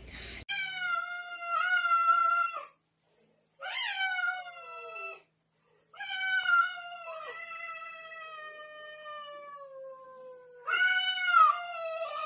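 A cat yowling: four long, drawn-out calls with short pauses between them, the third one much longer and slowly falling in pitch.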